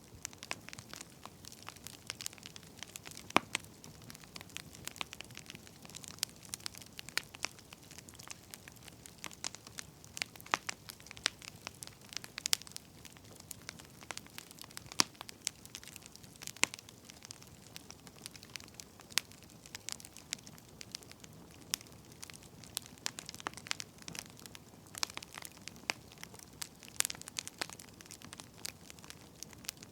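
Burning firewood crackling: irregular sharp pops and snaps over a faint steady hiss.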